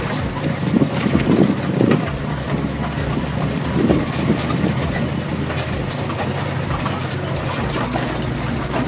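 A motor vehicle's engine running steadily, with scattered knocks and rattles over it, heaviest in the first few seconds.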